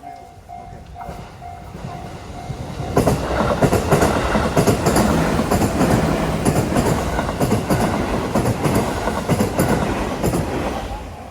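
A Japanese level-crossing alarm rings in a pulsing tone of about two strokes a second. About three seconds in, a JR West Sagano Line train passes over the crossing, its wheels knocking over the rail joints, and it drowns out the alarm until it has gone by near the end.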